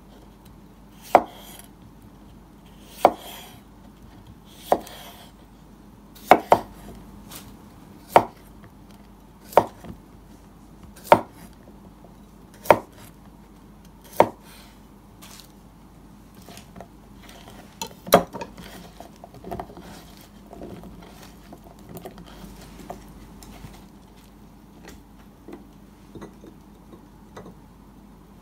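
Knife chopping on a cutting board, slow and even: about nine sharp strokes roughly a second and a half apart, then after a pause one more knock and lighter scattered tapping and clatter.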